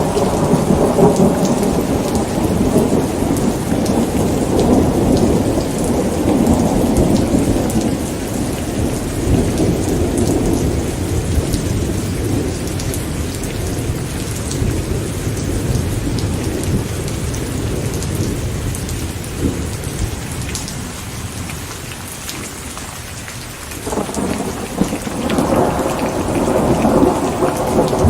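Steady rain falling with rolling thunder: a long rumble dies away over the first twenty seconds or so, and another roll of thunder starts abruptly about 24 seconds in.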